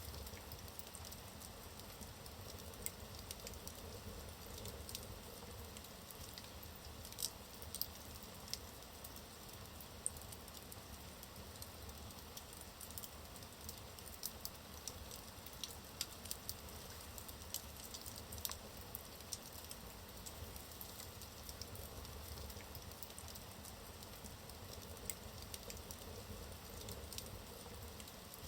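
Wood fire burning in a fireplace: a soft steady hiss with frequent small crackles and pops from the burning logs, a few of them sharper.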